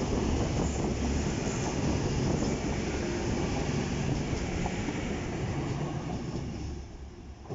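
Diesel passenger train passing, a loud steady rumble of engine and wheels on the rails that fades away near the end.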